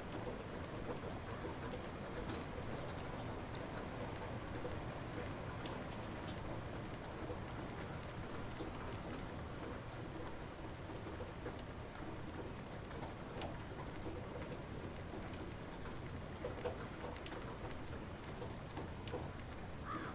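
Steady light rain: an even hiss of rainfall with scattered individual drops ticking.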